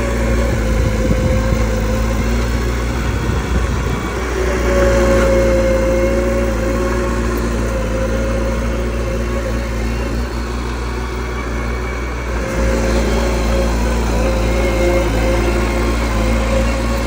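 Mini bulldozer's diesel engine running steadily under load. It grows louder about four and a half seconds in, eases off, and picks up again about twelve seconds in.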